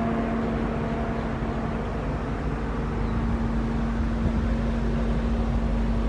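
A steady mechanical hum with a constant mid-low tone over a low rumble, unchanging throughout.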